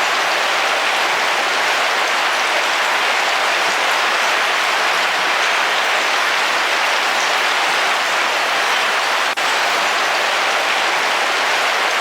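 Heavy rain falling steadily on a car's roof, a dense, even patter, with a momentary drop in level about nine seconds in.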